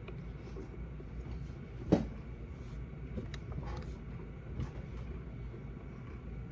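Tortilla chips being chewed with the mouth closed, giving a few soft crunches over a steady low rumble. One sharp, louder crack or knock comes about two seconds in.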